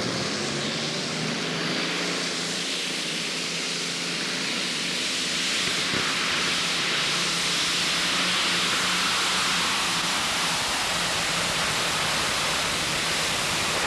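A competition pulling tractor's engines running at full power through a pull, heard as a loud, steady roar with a faint low steady tone beneath it.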